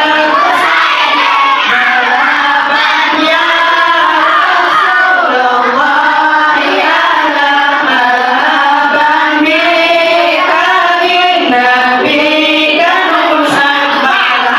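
A large group of children singing sholawat, an Islamic devotional song praising the Prophet, together with many voices in unison. The singing is loud and continuous.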